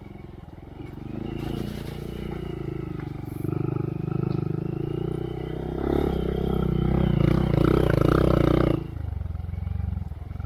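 2023 Honda Monkey's single-cylinder engine running through a Yoshimura RS3 exhaust with spark arrestor, pulling under throttle. It builds about a second in, is loudest near the end, then drops off suddenly about nine seconds in.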